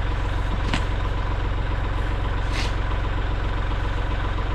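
Kubota L3301 tractor's three-cylinder diesel engine idling steadily, with two brief sharp sounds over it, about a second in and again about halfway through.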